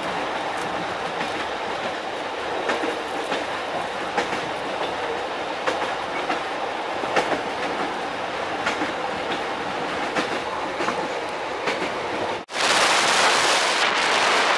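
Passenger train running at speed, heard from inside the carriage: a steady rumble with irregular wheel clicks over the rail joints. About two seconds before the end it cuts to a louder, steady rushing noise.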